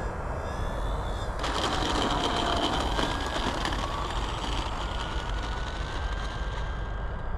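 Electric motor and propeller of a 1.5 m FMS Cessna 182 RC plane in flight, a whining drone that gets louder about a second and a half in, its pitch then rising slowly. A steady low rumble of wind on the microphone sits underneath.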